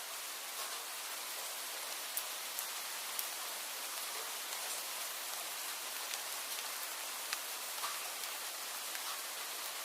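Steady rain falling, an even hiss with scattered sharp drip ticks of single drops landing close by.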